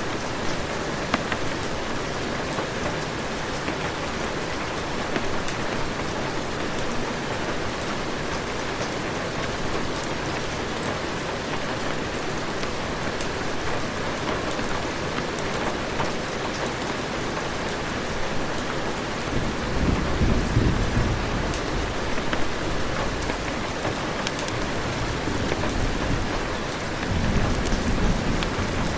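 Heavy rain falling steadily, with low rolls of thunder rumbling in about two-thirds of the way through and again near the end.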